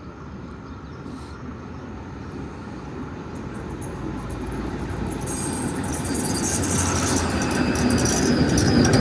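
A narrow-gauge tram-train approaching and growing steadily louder: a rumble, then rattling wheel clicks. A high wheel squeal starts to rise near the end.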